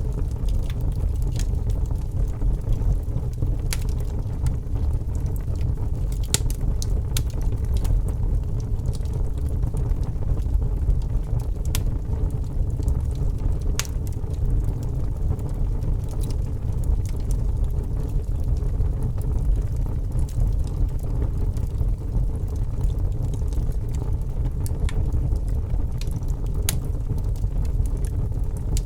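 Wood fire burning in a fireplace: a steady low rumble from the flames, with irregular sharp crackles and pops from the logs.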